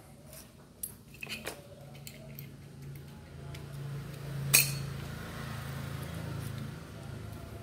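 Small metal parts of a rotary hammer clinking as a U-shaped retaining clip is fitted onto a bearing: scattered light clicks, then one sharp metal knock about four and a half seconds in, over a steady low hum.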